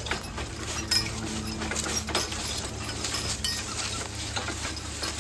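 Team of draft horses being driven in harness: the harness hardware clinks and jingles in irregular sharp clicks along with the horses' footfalls, over a steady low hum.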